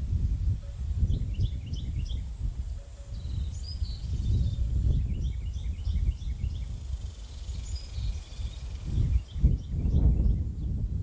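Small songbirds at a backyard feeder giving short, high chirps, several in quick runs, over a loud, uneven low rumble of background noise.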